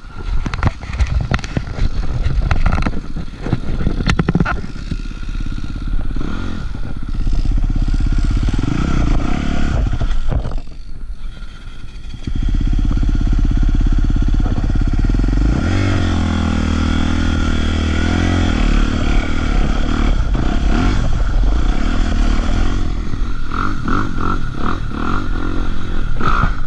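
Honda CRF250RX dirt bike's single-cylinder four-stroke engine running and revving up and down as it is ridden off-road, with some clattering. It eases off briefly in the middle, then runs loud and steady.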